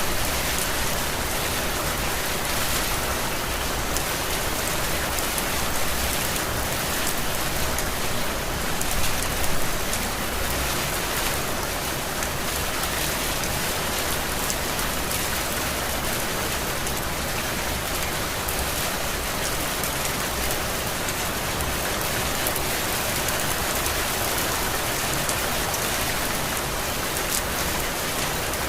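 Heavy rain falling steadily, with many individual drops pattering on surfaces, briefly louder about nine seconds in.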